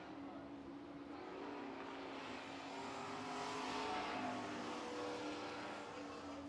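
Race trucks' engines running at reduced caution pace under a yellow flag, growing louder toward the middle as they pass and then fading.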